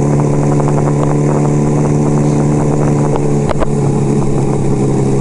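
1975 Kawasaki KZ400's parallel-twin engine running steadily while cruising at about 35 mph, heard from the rider's helmet; a brief knock about three and a half seconds in.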